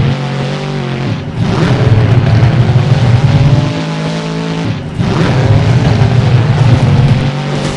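Monster truck engine revving hard, with two brief throttle lifts about a second in and about five seconds in, each followed by the engine climbing back up.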